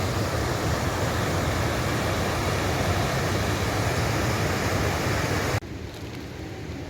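Low Force waterfall on the River Tees, water rushing loudly and steadily. About five and a half seconds in it drops suddenly to a quieter, duller rush.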